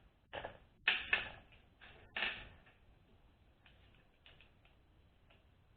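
Metal hand tools clattering and clinking as a 10 mm socket is picked out: a handful of sharp knocks in the first two and a half seconds, then a few faint ticks.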